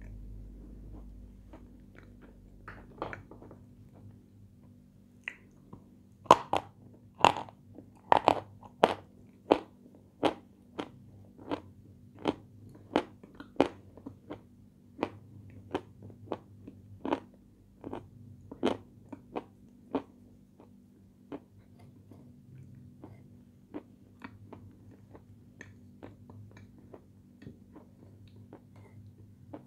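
Close-up crunching and chewing of a crunchy sweet: sharp crunches about one or two a second, loudest from about six seconds in, thinning to softer chewing in the last third. A steady low hum runs underneath.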